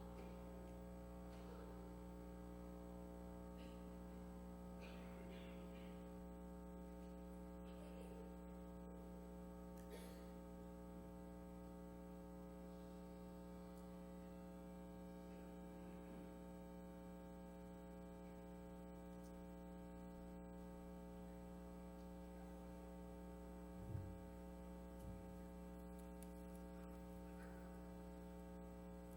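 Steady electrical mains hum, with faint room rustles and a couple of soft low thumps near the end.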